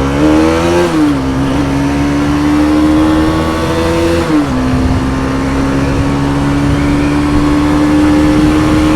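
Motorcycle engine accelerating through the gears: its pitch climbs, drops sharply at an upshift about a second in, climbs again, drops at a second upshift around four and a half seconds in, then rises slowly under steady throttle.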